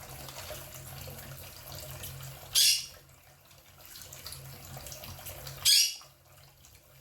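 Quaker parrot (monk parakeet) giving two short, loud, high-pitched squawks about three seconds apart. These are contact calls to another bird. A tap runs steadily underneath.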